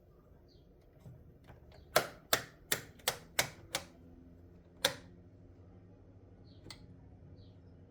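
A run of six sharp clicks or taps, about three a second, then a single one a second later, over a faint background.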